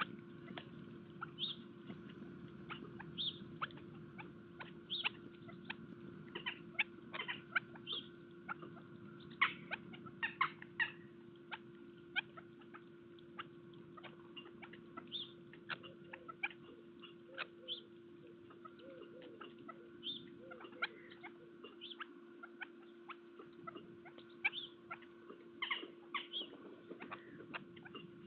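Small birds at a garden bird feeder: many short high chirps and ticks in quick, irregular succession, over a steady low hum.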